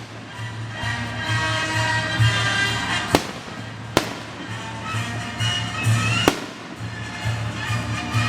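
Aerial fireworks going off, with three sharp bangs about three, four and six seconds in, over music with a pulsing bass beat.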